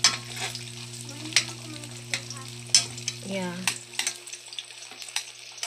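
Slices of ham frying in hot oil in an aluminium pan: a steady sizzle broken by sharp spattering pops of oil. The three loudest pops come about a second and a half apart.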